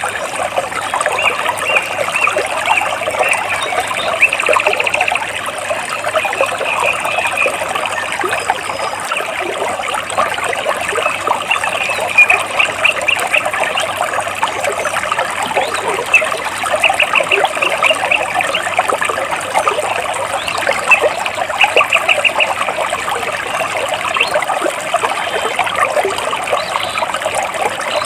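Water trickling and splashing among rocks, steady throughout, with a bird repeating short, fast, high-pitched trills every few seconds.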